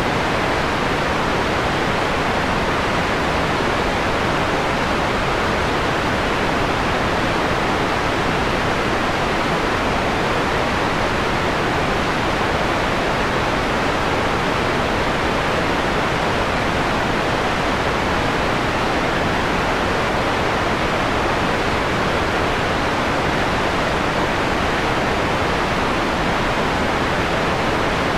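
Steady electronically generated white noise, filtered so its highest hiss is rolled off, giving a softer, mellower rushing sound. It holds even throughout with no breaks or changes.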